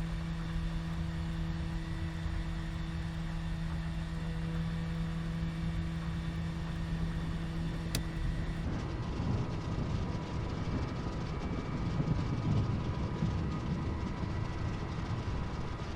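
Douglas DC-3's twin radial piston engines droning steadily. A bit past halfway a heavier, rougher rumble and rattle joins in.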